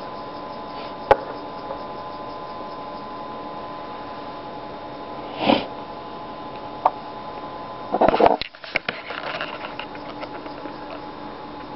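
Steady electrical hum with several constant tones, broken by handling noises: a sharp click about a second in, a brief scrape about halfway through, another click, then a short spell of clattering and rustling about eight seconds in.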